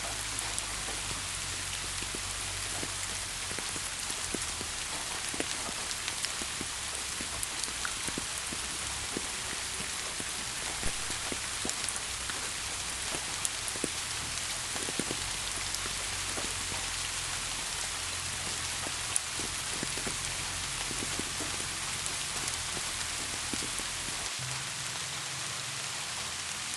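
Steady rain falling, an even hiss with many scattered sharp ticks of individual drops hitting a surface.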